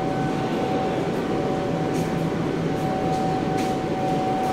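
Passenger train at the station platform: a steady mechanical hum and rumble with one constant high tone, and a few faint clicks about two and three and a half seconds in.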